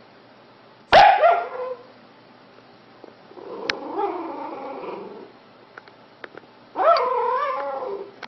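A dog vocalising three times. A sharp bark comes about a second in, falling in pitch. A softer, longer low call follows around four seconds in. Near the end comes a drawn-out wavering call of over a second.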